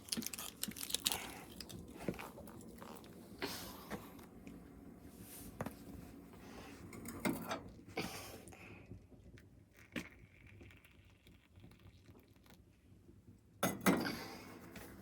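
Intermittent handling noises: scattered clicks, taps and rustles, with a louder rustling burst near the end.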